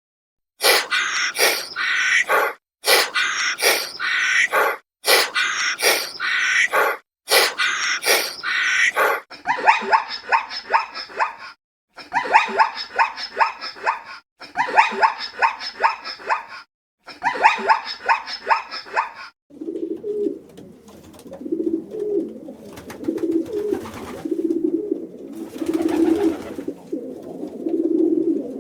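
A run of short animal-call clips, cut together with brief silences between them, the later ones coming as quick repeated calls. From about twenty seconds in, a pigeon coos in low, repeated coos.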